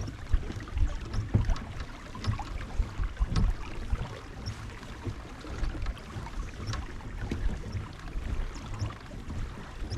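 Wind buffeting the microphone, an uneven low rumble, over water lapping and splashing against a fishing kayak, with scattered light clicks and ticks.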